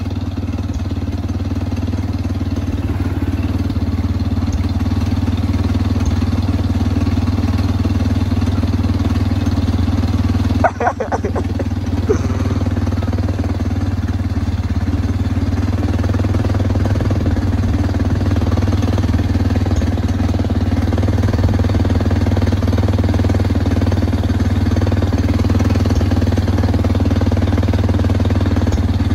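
Dirt bike engine running steadily and loud, getting slowly louder, with a brief short interruption about eleven seconds in.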